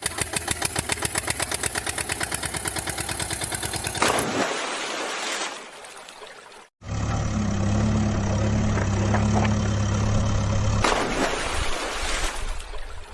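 Engine sound effects in separate cut clips: a fast, even chugging engine, about ten beats a second, for the first four seconds, then after a brief silence a steady low engine hum that fades near the end.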